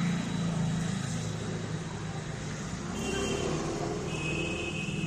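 A motor vehicle engine running steadily, with a high thin tone coming in about four seconds in.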